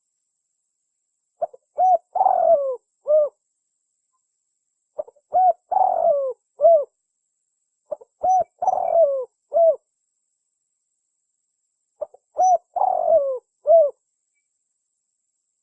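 Spotted dove (tekukur) cooing its song: four identical phrases, each made of a few short coos, one longer drawn-out coo and a final short coo, repeated about every four seconds.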